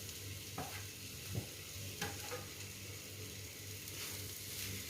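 Fried chicken sausage pieces stirred into onion-tomato masala in a pan over a low flame: a faint, steady sizzle with a few short knocks of the spoon against the pan in the first two seconds.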